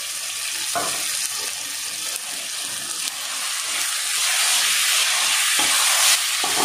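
Raw chicken pieces sizzling in hot oil and masala in an aluminium kadai as a spatula stirs them, the hiss growing louder about halfway through. A few short knocks of the spatula against the pan.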